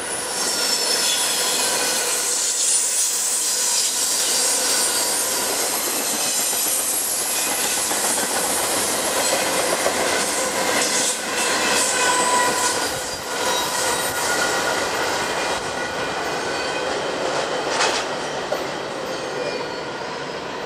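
Intermodal freight cars rolling past on curved track, their steel wheels squealing on the curve in several steady high-pitched tones over the rumble and clicking of the wheels on the rails. A single sharp clank comes near the end.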